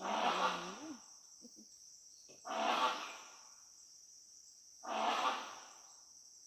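Steady, high chirring of insects, with three loud, harsh rushing bursts over it, each under a second long and about two and a half seconds apart.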